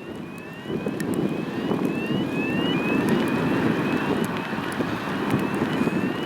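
Boeing C-17A Globemaster III's four turbofan engines running, a steady rumble, with wind buffeting the microphone.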